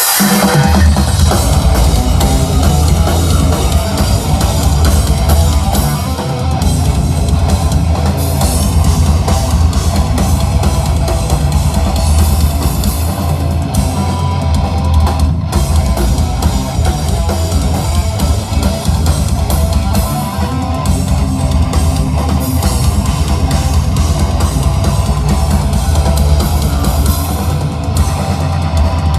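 Loud live rock band playing, with a drum kit and guitars, the music starting abruptly and running on without a break.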